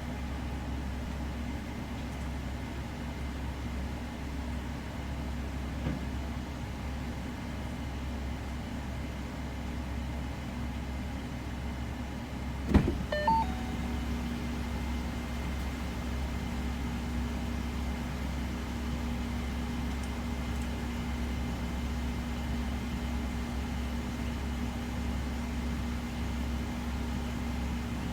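Electric fans on a VMP triple-pass intercooler heat exchanger and the intercooler water pumps (a Rule 2000 pump and the factory pump) running steadily with the engine off, circulating coolant through the supercharger intercooler. A short click about halfway through, after which a steady hum joins.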